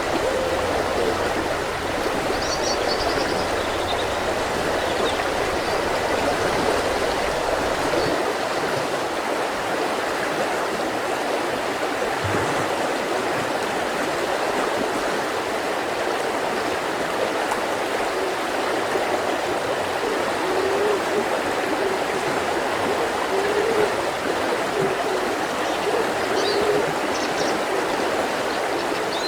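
Mountain river flowing steadily, with a few brief high bird calls about two seconds in and again near the end.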